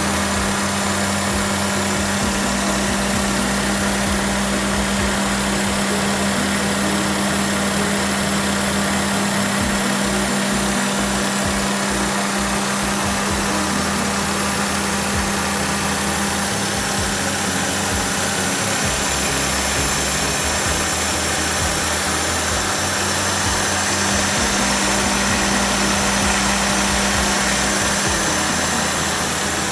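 Daihatsu Naked's three-cylinder EF engine idling steadily, with a freshly replaced timing belt, water pump and drive belts.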